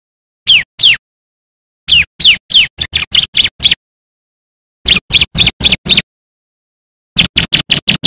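Bar-winged prinia (ciblek) singing: bursts of sharp, downward-sweeping whistled notes, two notes, then a run of about eight, then five, then a fast string near the end, with silent gaps between bursts.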